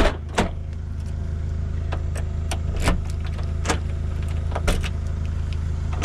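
Car engine idling with a steady low hum, with a series of sharp clicks and knocks over it.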